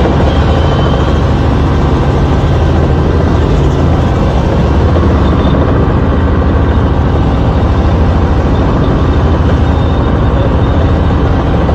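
Helicopter running close by: a loud, steady rotor and engine noise with a deep hum underneath.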